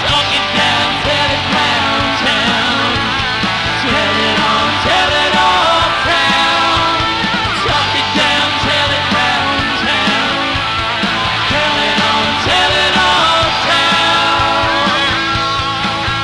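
Live rock band playing a song on guitars, bass and drums, with a wavering, bending melody line on top. The recording is dull, with little treble.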